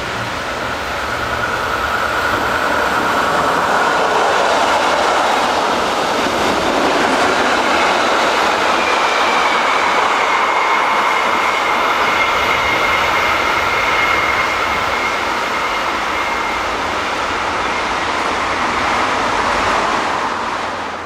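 Rhaetian Railway metre-gauge passenger train of red coaches running past close by, a steady rolling rumble of wheels on rails that swells over the first few seconds and holds. Thin high wheel squeal sounds through the middle.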